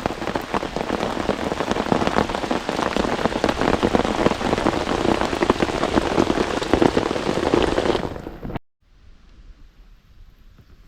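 Steady rain falling on a camping tarp, a dense patter of many separate drops hitting the fabric. It fades out about eight seconds in, leaving a much quieter hiss.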